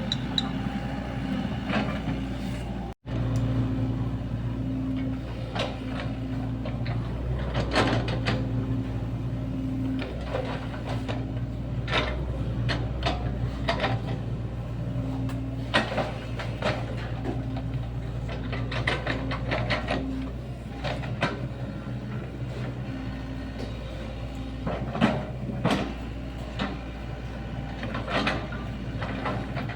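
Sany SY75 mini excavator working a trench: its diesel engine runs steadily, and the bucket and arm make repeated clanks and knocks. The sound cuts out for an instant about three seconds in.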